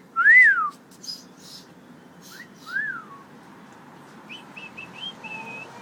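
Parrot whistling: a loud rising-and-falling whistle, a softer one about two and a half seconds in, then a quick run of short high chirps ending in a held note near the end.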